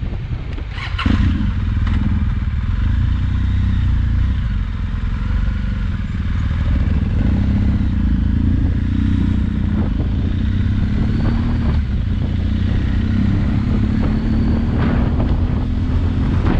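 Motorcycle engine running at low revs while the bike rolls slowly, heard close up from a camera mounted on the bike; it gets louder about a second in.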